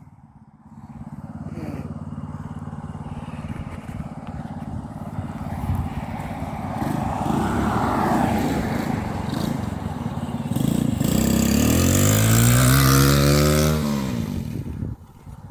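Road traffic passing on the street: tyre and engine noise building, then one vehicle's engine passing close, loudest about twelve to fourteen seconds in and fading quickly after.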